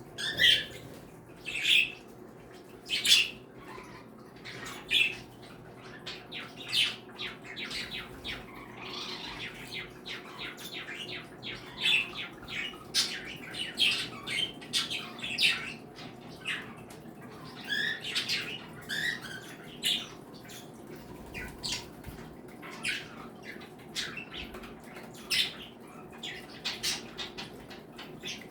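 Mixed flock of pet cage birds (budgies, cockatiels, Bourke's parakeets, canaries and Java sparrows) chirping, whistling and squawking in many overlapping short calls. A few louder, sharper calls stand out in the first few seconds. A steady low hum runs underneath.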